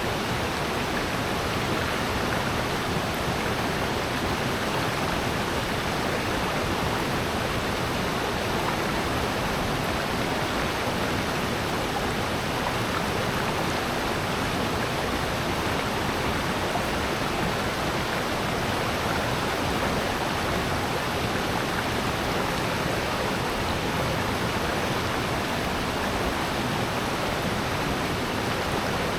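Rushing water of a valley stream and waterfall: a steady, unbroken rush that does not change.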